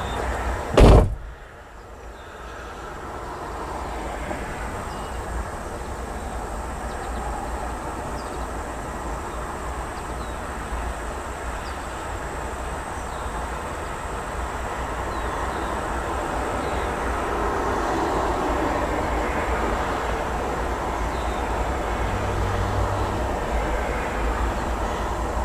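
Distant train approaching, a steady rumble that slowly grows louder. A sharp thump about a second in is louder than anything else.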